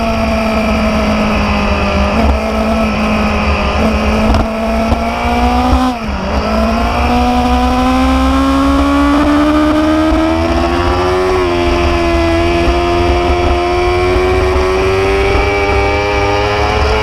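Motorcycle engine running under way at a steady pitch, which dips sharply about six seconds in and then climbs slowly as the bike accelerates, over a steady low rumble.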